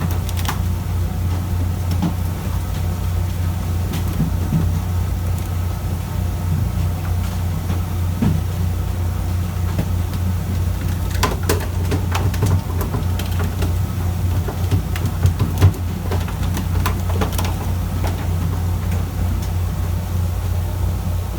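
Fishing boat's engine running steadily, a low, even drone. A few short clacks sound over it in the second half.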